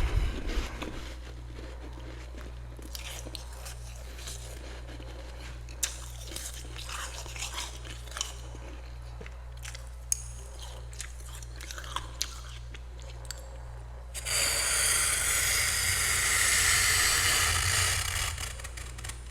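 Spoon scraping and crunching through built-up freezer frost: scattered crackles and crunches, then near the end a loud, continuous scrape lasting about four seconds. A steady low hum runs underneath.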